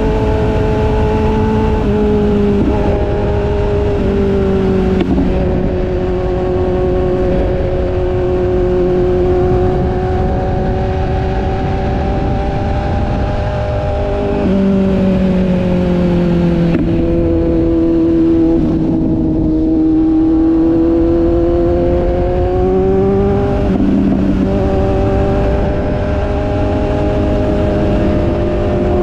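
Motorcycle engine running while riding, its pitch rising and falling and changing in steps several times, over a steady rumble of wind noise.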